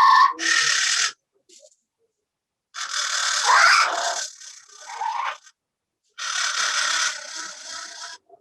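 Parrot squawking and chattering in three loud, harsh bursts, each cut off abruptly into dead silence, as a video call's audio gating does.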